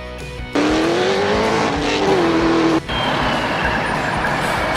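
Race car engine: a high, rough engine note rises and holds, then cuts off abruptly about three seconds in, followed by a steady rushing roar.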